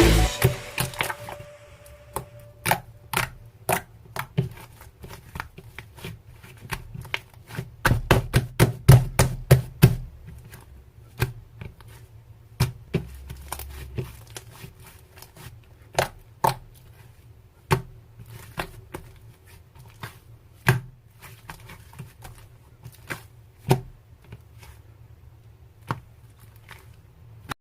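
Slime being squeezed and poked by hand, giving irregular sharp clicks and pops. They come densest in a quick run about eight to ten seconds in.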